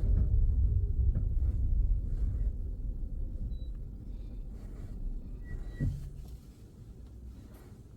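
Low car engine and road rumble heard from inside the cabin, fading steadily over several seconds until it is quiet.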